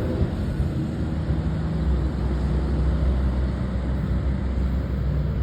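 Train passing trackside: a steady low rumble with a faint low hum.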